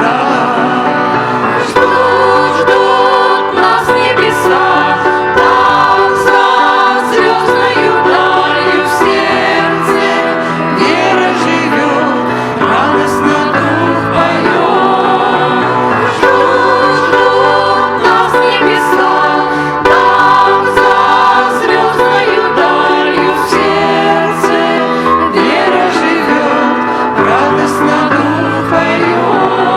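Voices singing a Christian song with instrumental accompaniment, at a steady tempo.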